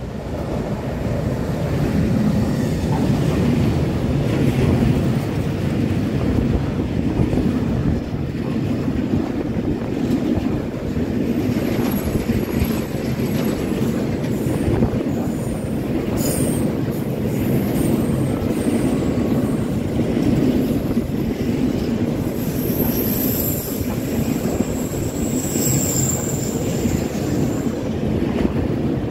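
Container freight train behind an E494 electric locomotive running through the station: a steady rumble and clatter of wagon wheels on the rails. High-pitched wheel squeals come now and then, mostly in the second half.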